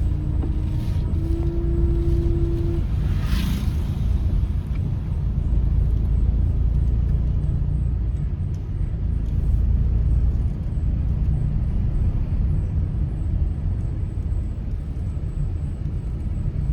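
A TNSTC bus's diesel engine working hard up a hill climb, a loud, steady low drone throughout. A held tone sounds for the first three seconds, and there is a short hiss about three and a half seconds in.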